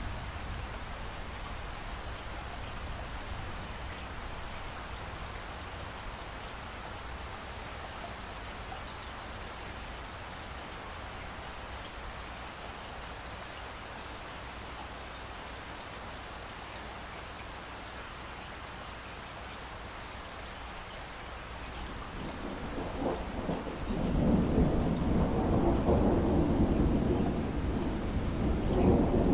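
Steady rain falling, then a roll of thunder that builds near the end and rumbles loudly through the last few seconds.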